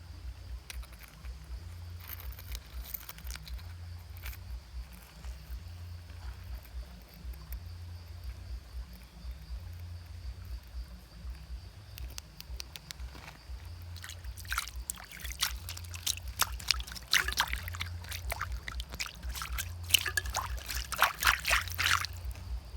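Water trickling and sloshing over a low rumble, with a run of sharp clicks and scrapes starting about two-thirds of the way in.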